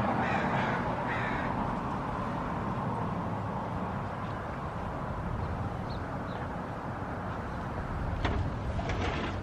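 A bird gives two short, harsh calls in the first second and a half, over a steady low outdoor rumble. A couple of sharp clicks come near the end.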